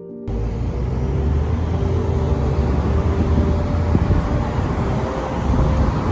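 Car driving on a road: a steady low rumble of engine and tyre noise, which takes over when background music cuts off just after the start.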